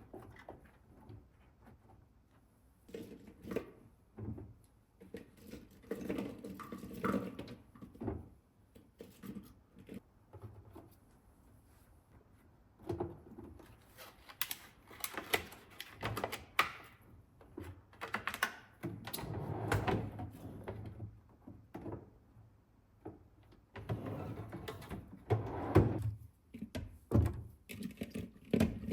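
Kitchen handling sounds: irregular knocks, clicks and rustling as food and containers are moved and set down, with thunks like a cupboard, drawer or fridge door.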